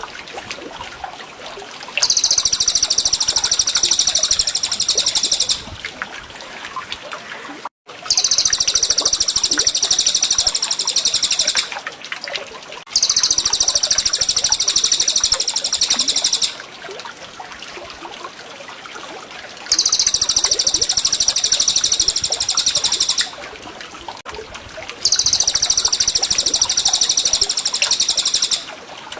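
A songbird's rapid, very high rolling trill, played back as the same phrase of about three and a half seconds repeated five times with short gaps, over a steady trickle of water. It is a bird-training recording of cucak jenggot and cililin song.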